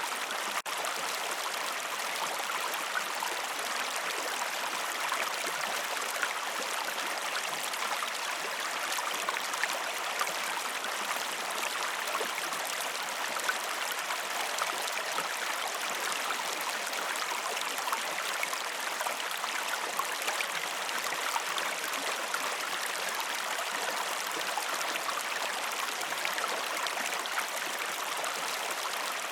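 River water running steadily: an even rush of flowing water with fine trickling and bubbling detail, broken only by a momentary dropout about half a second in.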